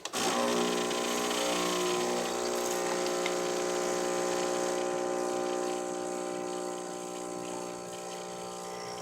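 Starbucks Verismo pod coffee machine's pump running as it brews an espresso shot: a steady hum that starts abruptly and drops a little in level about six seconds in.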